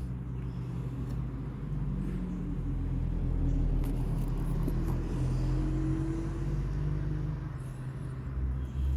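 A nearby engine runs with a steady low rumble that swells a little through the middle and eases near the end.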